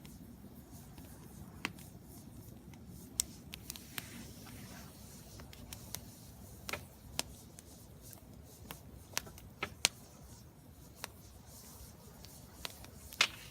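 Wood fire crackling in a fire pit: a low steady burn with about a dozen sharp, irregular pops, the loudest near the end.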